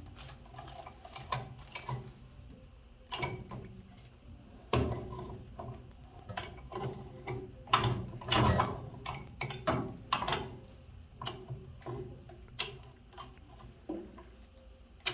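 Irregular metallic clicks and clanks of a wrench working on a gas line pipe fitting as it is tightened, a cluster of louder knocks a little past the middle.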